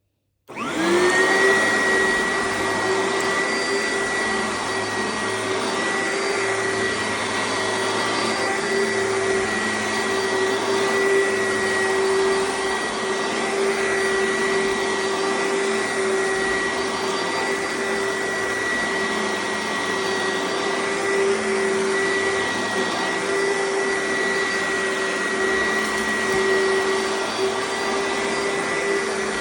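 Oreck XL upright vacuum cleaner switched on, its motor spinning up with a quick rising whine in about the first second, then running steadily while vacuuming.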